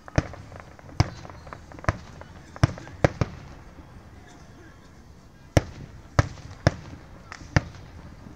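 Aerial firework shells bursting: about ten sharp bangs at irregular intervals, several in quick succession, with a pause of about two seconds in the middle.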